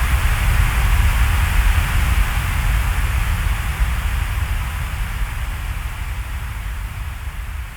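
Steady hiss of rain with a low rumble underneath, gradually getting quieter over the second half.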